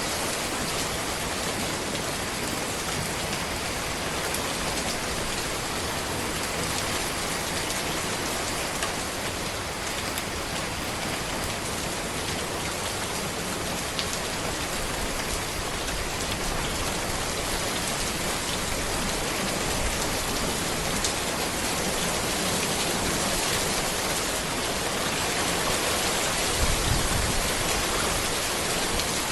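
Steady rain falling on a road: a dense, even hiss with scattered individual drop ticks. A brief low rumble swells near the end.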